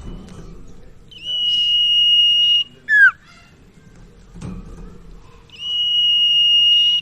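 Common iora (sirtu/cipoh) singing its whistled song: a long, level, high whistle held for about a second and a half, then a short falling note, and the long whistle again near the end. A faint knock about four and a half seconds in.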